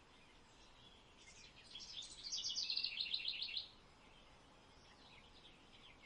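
Bird chirping: a quick run of high, rapidly repeated chirps starting about two seconds in and lasting about a second and a half, with only faint sound around it.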